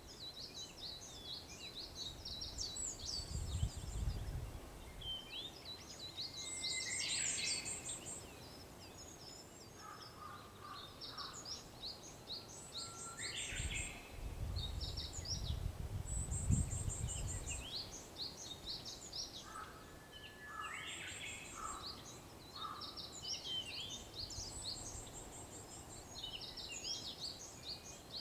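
Dawn chorus of many small birds chirping and trilling continuously, with a Japanese bush warbler (uguisu) singing its held note and quick flourish several times. Two spells of low rumble, a few seconds in and again around the middle.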